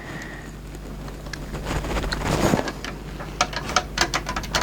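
The LG VCR's cassette loading mechanism running under its motor: a steady hum and whir that swells around the middle, followed near the end by a quick run of mechanical clicks. The freshly greased mechanism is cycling the tape out.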